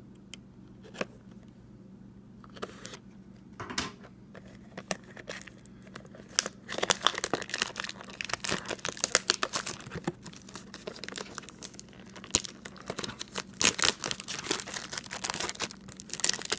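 Packaging of a retail blaster box of baseball cards being torn open and crinkled: a few scattered handling clicks at first, then dense crinkling and tearing from about six seconds in.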